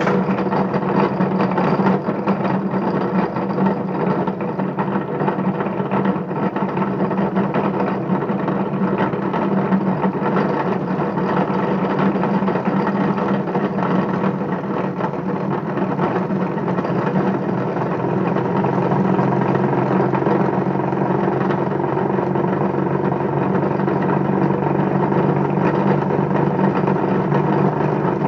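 Bedini pulse motor with a BMX-rim rotor spinning steadily: a continuous mechanical whir with a steady hum, the noise of its bad bearings.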